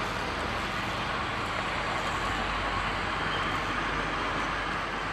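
Steady hum of distant road traffic, an even rushing noise with no distinct events.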